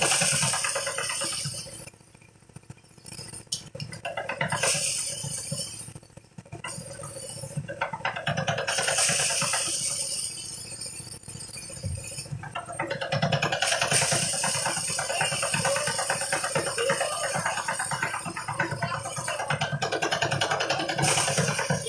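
Engine-driven rice threshing machine running with a rattling drone that swells and drops every few seconds.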